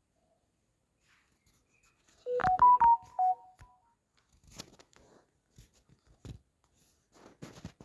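A short electronic jingle of about six quick beeping notes, stepping up and back down, a little over two seconds in, followed by a few faint clicks and knocks.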